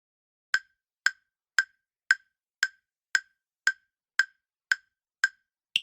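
Countdown timer sound effect: ten short, even ticks about two a second, then one higher-pitched tick at the end.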